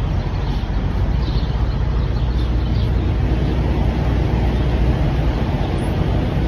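Steady low rumble of engine and road noise inside a moving semi truck.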